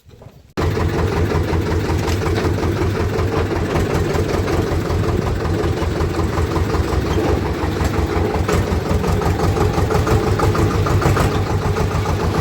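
Farm tractor's diesel engine running steadily with a fast, even low pulse. It cuts in abruptly about half a second in.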